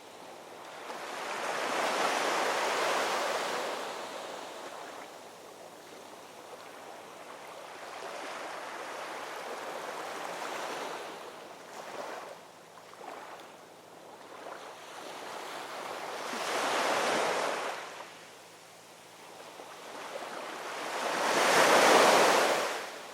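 Ocean waves breaking and washing on a shore, rising and falling in swells; three larger waves break, about two seconds in, about two-thirds of the way through and near the end, the last the loudest, with smaller washes between.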